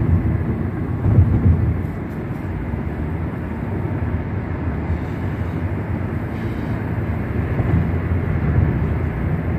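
Steady road noise inside a car's cabin at freeway speed: a constant low rumble of tyres and engine with a soft hiss.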